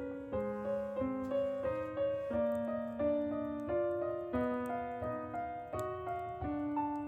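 Background music: a gentle, mellow piano melody of single notes over sustained low notes, at an unhurried pace.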